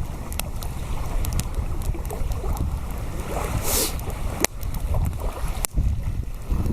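Strong wind buffeting the microphone: a steady low rumble, with scattered sharp clicks and a short hiss about four seconds in.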